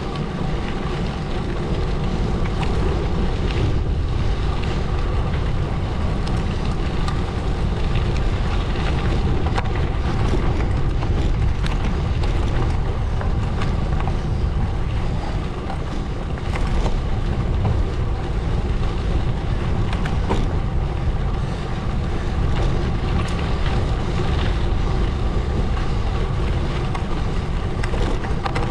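Gravel bike tyres rolling over a gravel road: a steady crunching rush with scattered ticks of stones. Heavy wind noise on the microphone runs underneath.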